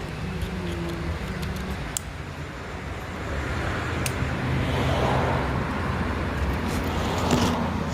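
Motor vehicle engine and road noise: a steady low drone that grows louder for a few seconds midway, with a few faint clicks.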